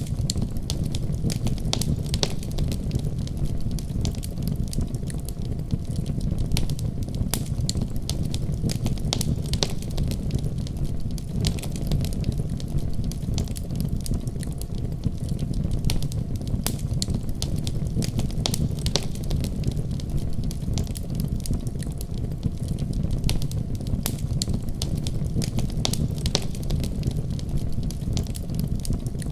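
Wood fire burning with a steady low roar and frequent sharp crackles and pops scattered irregularly throughout.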